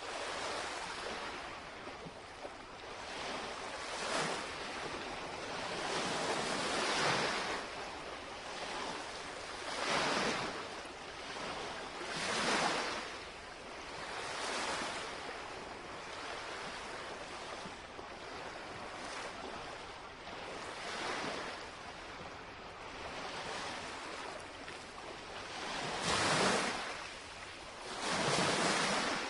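Small lake waves lapping and breaking on the shoreline, a steady wash that swells every two to three seconds.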